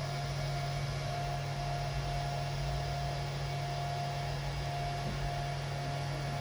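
Steady electrical hum with a thin, constant whine above it, typical of a Fanuc 0i Mate-MB CNC control powered up for a test run, its power supply and cooling fan running.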